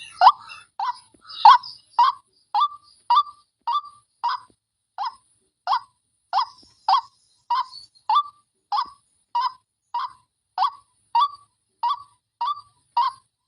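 White-breasted waterhen giving a long, even series of short, harsh 'wak' calls, each sweeping down in pitch, repeated a little less than twice a second: the lure call for the species.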